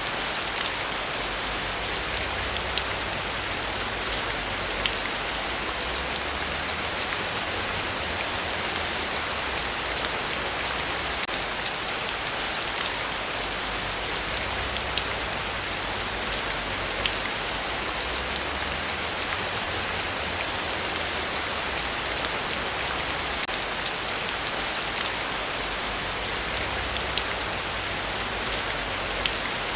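Heavy rain falling steadily, a dense hiss with fine ticks of individual drops, over a low rumble that swells and fades.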